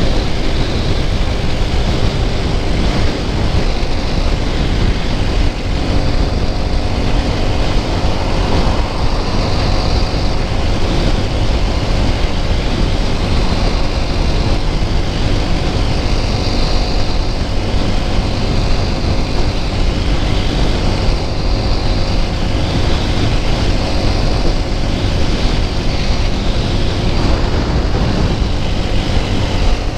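TVS Apache RTR 200 4V's single-cylinder engine running steadily while cruising on the open road, mixed with heavy wind rush on the microphone.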